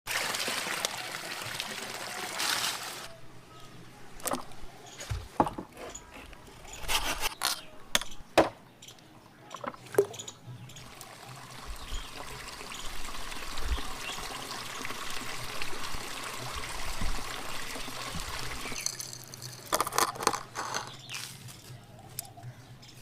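Water trickling and pouring, broken by scattered knocks and clicks, then a steady hiss in the middle.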